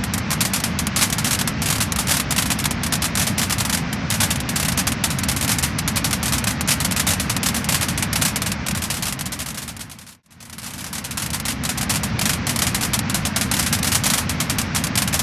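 Wood fire crackling and popping densely over a steady low rush of burning. About ten seconds in it fades to near silence and swells straight back up.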